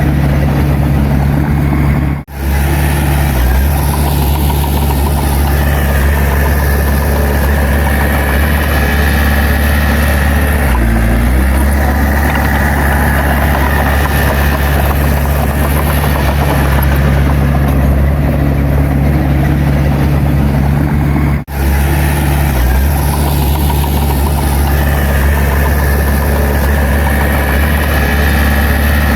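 Heavy diesel engine of earthmoving equipment running steadily, with a higher whine coming and going twice. The sound cuts out for a split second twice.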